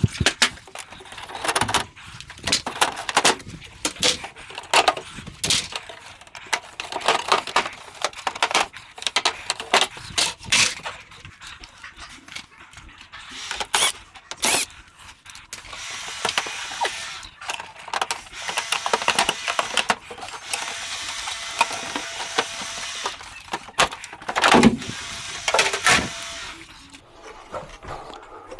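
Irregular clicks and knocks of plastic panels and tools being handled while an air conditioner is taken apart, with a steady hiss under them for much of the second half.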